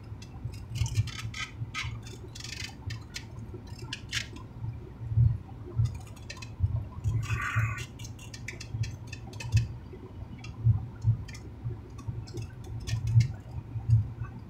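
Close-up chewing of a torta sandwich: wet, squishy mouth sounds with many small lip-smacking clicks and soft thuds, over a low steady hum.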